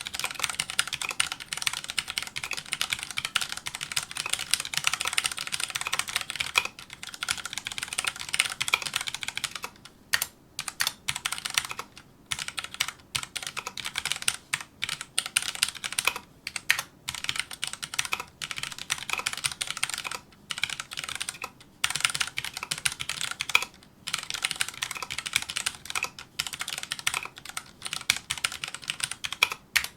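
Fast touch-typing on a Filco Majestouch2 mechanical keyboard with Cherry MX Brown switches: a dense, rapid clatter of keystrokes, unbroken for the first ten seconds or so, then in runs separated by short pauses.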